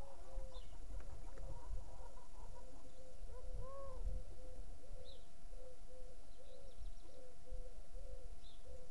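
A bird calling a steady run of short, low notes that each rise and fall in pitch, about two a second, with one higher note about four seconds in. A few faint high chirps from a small bird come in between.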